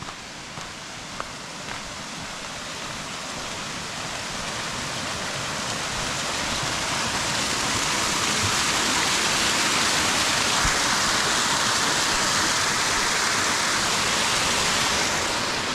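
Waterfall rushing, growing steadily louder over the first half as it is approached and then holding strong. A few faint footsteps at the start.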